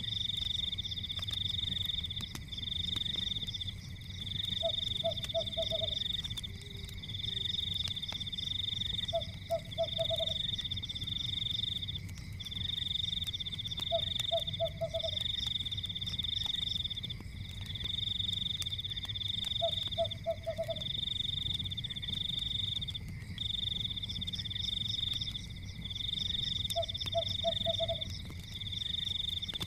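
A night chorus of frogs and insects: a high pulsing trill in long runs with short breaks, and a lower croak of four or five quick notes every five seconds or so. Underneath is the faint crackle of a wood fire.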